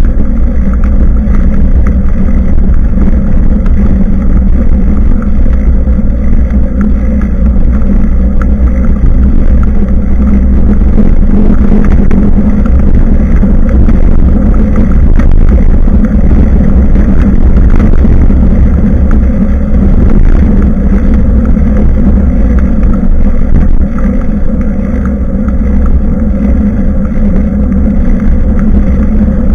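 Steady, loud rumble of wind and road noise on the microphone of an action camera mounted on a bicycle being ridden.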